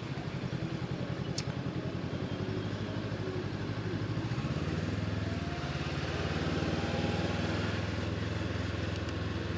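Honda CB500X parallel-twin engine running with a fast, even pulse, its note shifting about halfway through, under a haze of wind and road noise. One short click comes early on.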